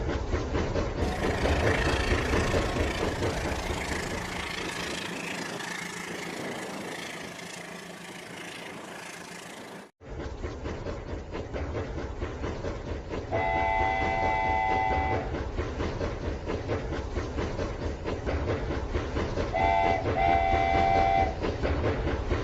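Toy train running with a steady rattling clatter. After an abrupt cut, a chord-like horn sounds twice, first held for about two seconds and then as a short double toot near the end.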